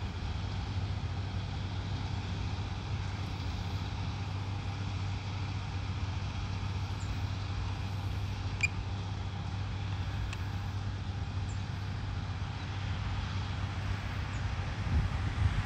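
Steady low mechanical hum and rumble, like a running motor or engine, with a faint sharp click about eight and a half seconds in.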